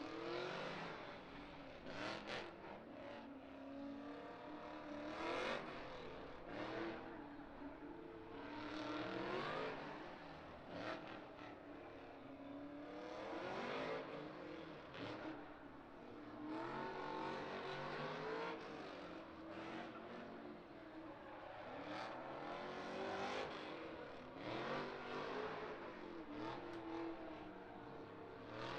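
Drift car engines revving hard and falling back again and again, a fresh rise every few seconds.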